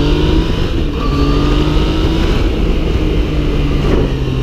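Yamaha MT-09's 847 cc inline-three engine running under way on the road, its note holding steady and rising gently in pitch, with a brief break about a second in.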